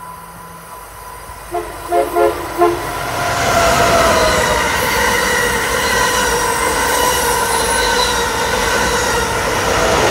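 Amtrak Acela Express high-speed trainset sounding four short horn toots as it approaches, then passing close at speed: a loud, steady rush of wheels and air with an electric whine that drops in pitch as the rear power car goes by near the end.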